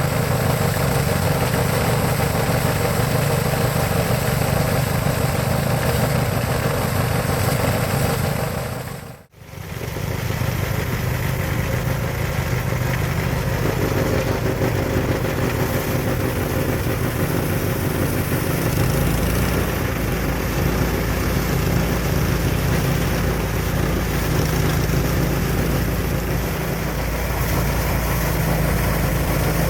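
Engine-driven paddy thresher running with a steady drone and hiss. The sound drops away for a moment about nine seconds in, then picks up again.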